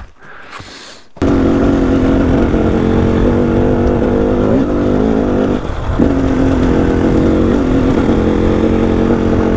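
KTM EXC 300 two-stroke enduro engine running steadily under load as the bike climbs a gravel track, cutting in abruptly about a second in with a brief dip in the middle. It is running well at altitude, around 2000 m.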